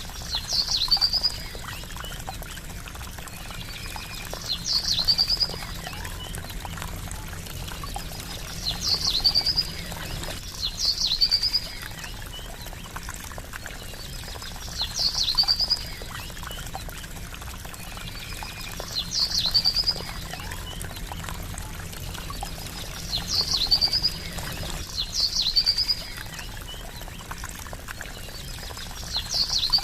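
Steady trickling, splashing water, with a short high bird call repeated about every four seconds over it, each call sweeping down into a brief trill.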